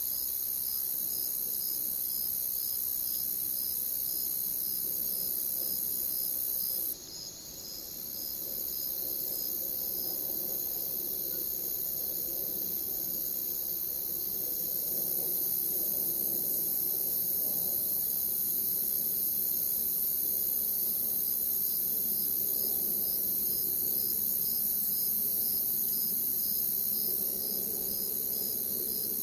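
Crickets singing: a steady high trill with a regular chirp repeating about two to three times a second. The high trill drops out briefly about seven seconds in, then returns.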